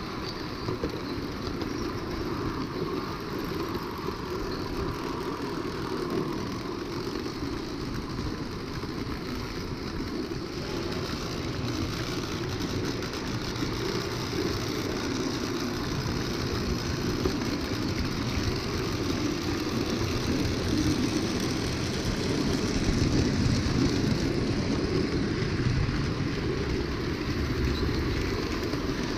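Lionel O gauge toy train running on three-rail track: a steady motor whir with the rumble of wheels on the rails, getting somewhat louder in the second half.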